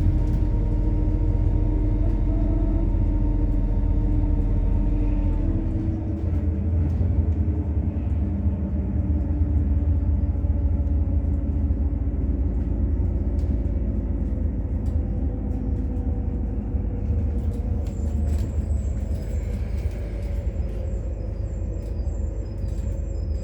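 MAZ-103 city bus running on methane, heard on board: a steady engine drone with a low rumble. About five and a half seconds in the engine's tones shift and it settles into a rougher rumble of engine and road noise. Faint high warbling tones join in the last few seconds.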